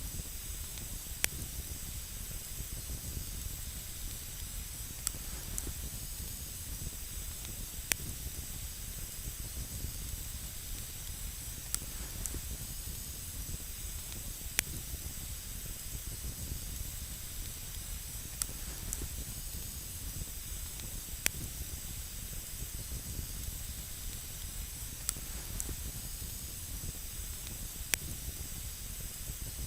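Campfire burning on snow, with a steady hiss and sharp single crackles every few seconds.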